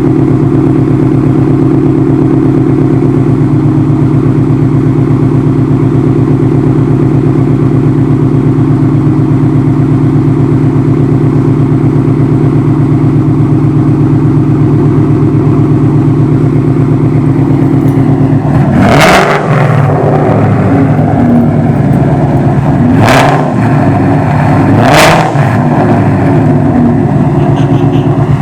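2019 Mustang GT's 5.0-litre V8 idling steadily through a new Flowmaster Outlaws H-pipe catback exhaust, then revved in short, sharp blips about three times in the last ten seconds, with another starting at the very end.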